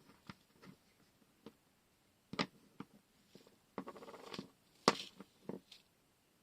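A washi tape set being unboxed: irregular clicks, taps and rustles of handled packaging and tape rolls. The loudest knocks come about two and a half and five seconds in.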